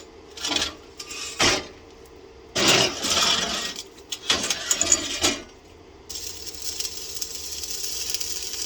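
Metal parts clinking and clattering in several short bursts, the longest about two and a half seconds in; about six seconds in, a steady high hiss begins.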